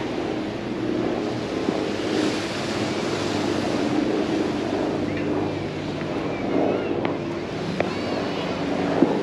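Busy beach ambience: surf washing on the shore under a steady low hum, with faint voices and a few high calls in the second half. A sharp knock sounds just before the end.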